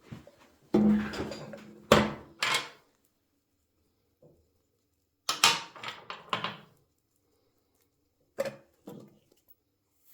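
Workshop clunks and knocks of motorcycle front-end parts and tools being handled, in several short groups with quiet gaps between; the loudest comes about a second in.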